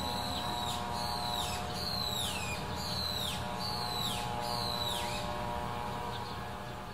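A bird calling: about six high notes just under a second apart, each holding its pitch and then dropping at the end, ending about a second before the final stretch. A steady low hum runs underneath.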